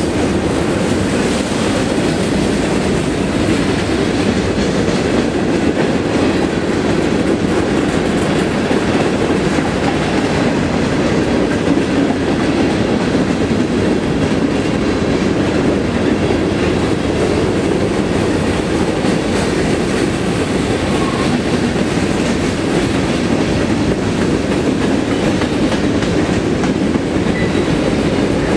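Boxcars and covered hoppers of a manifest freight train passing at speed: the steady, even noise of steel wheels rolling on rail.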